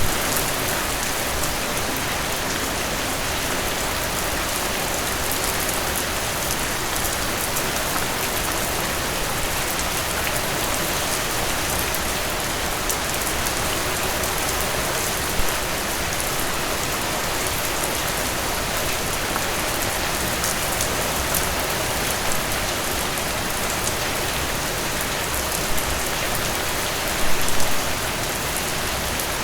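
Heavy rain falling steadily as an even hiss, with a couple of brief louder spatters, the most prominent about 27 seconds in.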